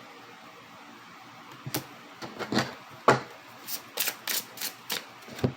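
Oracle cards being handled: a series of about ten short, light clicks and taps, starting a couple of seconds in.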